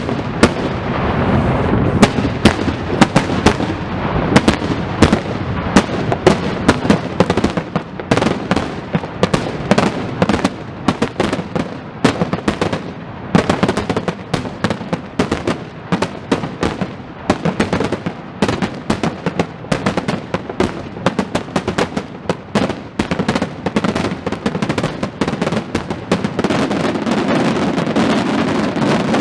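Fireworks display: a rapid, dense barrage of sharp bangs and crackling shell bursts, thinning out near the end.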